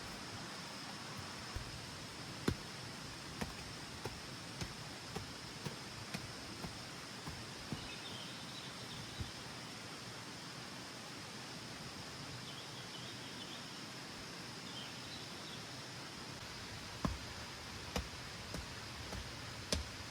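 Steady rain hiss over a constant high whine, with irregular sharp ticks and knocks that come more often near the end, and a few faint high chirps in the middle.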